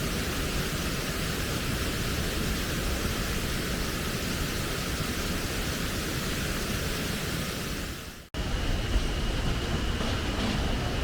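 Steady rushing of a clear mountain stream through a rocky gorge. About eight seconds in it cuts off abruptly to a different steady rumbling noise.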